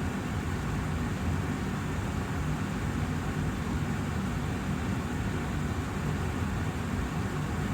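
Austin Air HealthMate air purifier's fan running steadily, an even rush of air that is strongest in the low range.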